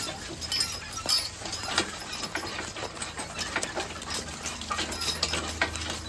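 Team of draft horses walking while being driven, hooves clopping with harness and vehicle rattle: irregular clicks and knocks over a steady low rumble.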